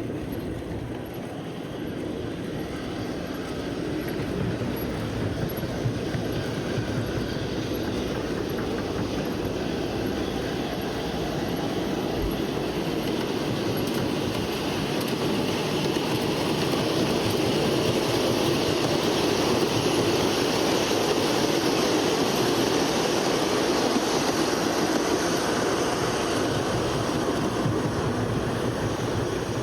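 A train running on the rails: a steady rumble that grows louder through the middle and holds near its loudest in the second half.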